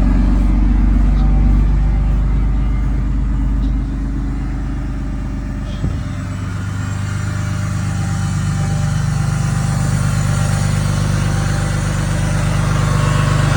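Cummins diesel truck engine running just after a cold start in 9-degree cold. It drops off about four seconds in, gives a short click near six seconds, then slowly picks up again.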